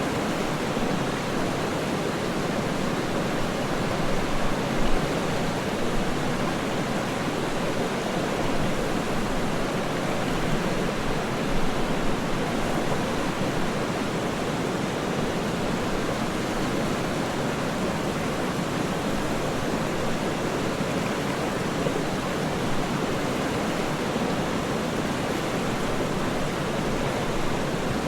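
Waterfall: a steady, even rush of falling water, without pauses or changes.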